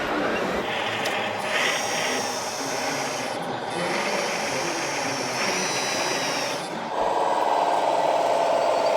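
Small electric motors and gearboxes of radio-controlled construction models whining and grinding as they work. There are high whines that come and go, and a steadier, louder whine sets in near the end.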